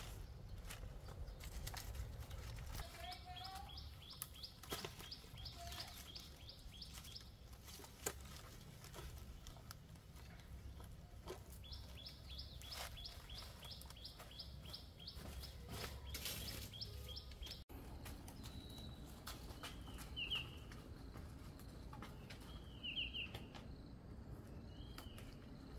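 Birds calling: two runs of quick, evenly repeated high chirps, about four a second, each lasting a few seconds, then a few short separate chirps near the end. Underneath are a low rumble and scattered clicks and rustles.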